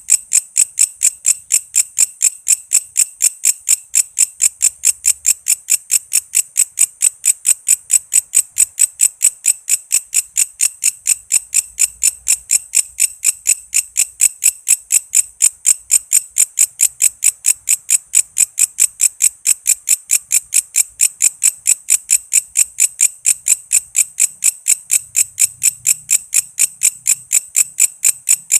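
Walang kece, a singing orthopteran insect, calling in a steady, unbroken train of sharp, high-pitched chirps, about four to five a second.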